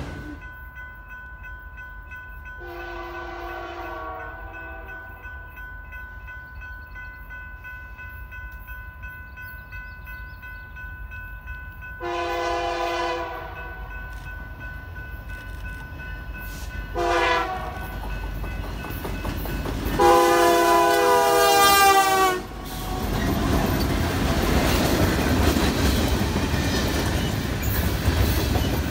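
A locomotive's multi-note air horn blows long, long, short, long, the grade-crossing signal, the last blast the loudest. Then the train passes close by, with a loud rumble of wheels on rail.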